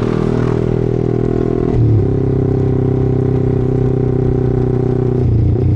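Yamaha R15 motorcycle's single-cylinder four-stroke engine running with a steady note, which shifts briefly about two seconds in and again near the end.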